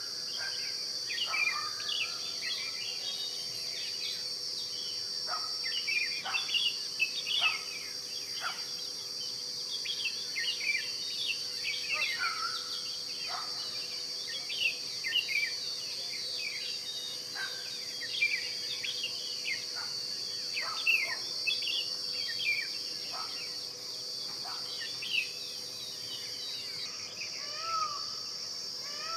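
A steady high-pitched insect drone, with many short, quick bird chirps and calls scattered throughout.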